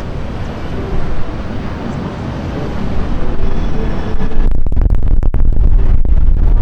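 Wind buffeting the microphone over street ambience, turning into a heavy, choppy low rumble as a strong gust hits about four seconds in.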